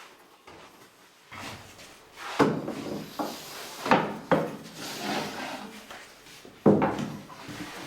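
Workshop handling noise: a few sharp wooden knocks and clatters, the loudest about two and a half seconds in and again near the end, like trays or boards being set down and moved.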